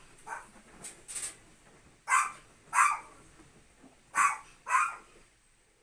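A dog barking repeatedly. A few fainter barks in the first second or so are followed by four loud barks in two pairs.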